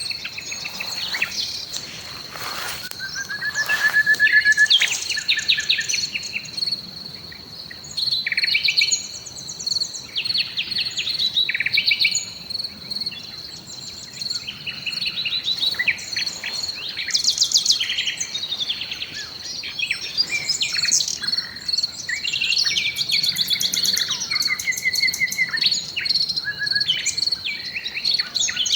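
Several songbirds singing over one another in varied trills, whistles and rapid note series, over a steady high, pulsing insect drone, likely crickets or cicadas.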